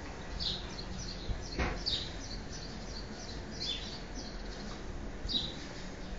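Small birds chirping: a series of short, high, downward-sweeping chirps, over a faint steady low hum.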